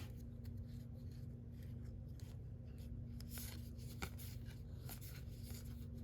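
Baseball cards being handled and flipped through by hand: faint soft slides and light taps, with a steady low hum behind them.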